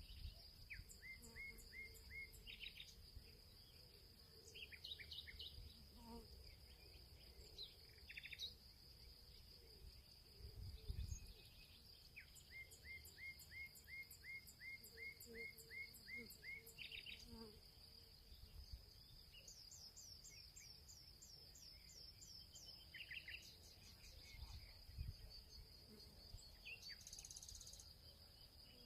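Faint field ambience: insects, probably crickets, keep up a steady high trill. Over it, birds sing phrases of evenly repeated notes, two slower runs of about five and ten notes and a quicker, higher run of falling notes about two-thirds of the way in. There are a few brief low rumbles, the loudest about a third of the way in.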